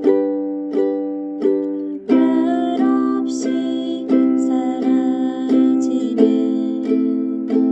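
Ukulele music: chords strummed in an even rhythm, about one strum every 0.7 s, and from about two seconds in a plucked melody line joins over the strumming.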